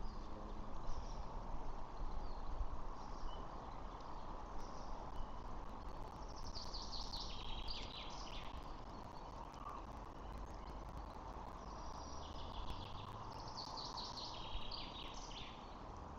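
Small birds chirping in quick, high-pitched runs, loudest in two bursts about six and twelve seconds in, over a steady outdoor background hiss and low hum.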